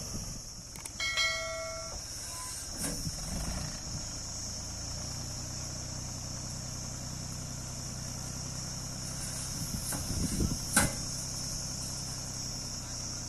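Mahindra 275 DI XP Plus tractor's three-cylinder diesel engine running steadily while pulling a fully loaded trolley, with a short two-note horn-like beep about a second in and a few knocks, the loudest near the end.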